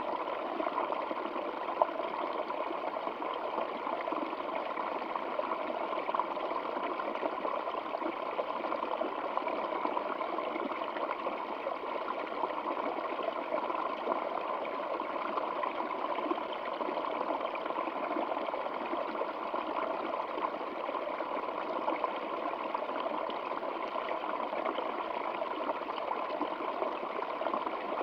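A stream's water flowing and trickling in a steady, even rush with no pauses or changes.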